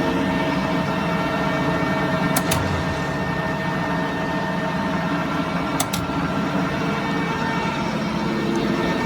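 Large Tru-Turn engine lathe running, a steady mechanical hum of motor and gearing with several constant tones. Two pairs of short, sharp ticks come about two and a half seconds and six seconds in.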